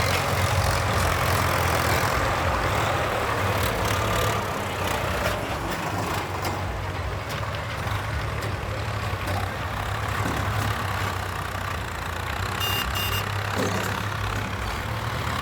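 Heavy diesel earthmoving machine running steadily at a construction site clearing, with engine rumble and clatter. Two short high beeps sound about two-thirds of the way through.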